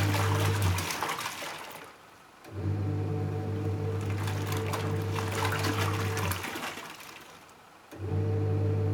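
Panasonic NA-W77FCW1 twin-tub washing machine's wash tub running: the motor hums and the water churns for about four seconds, stops for about a second and a half, then starts again. This stop-start pattern is the wash pulsator reversing direction during the wash cycle.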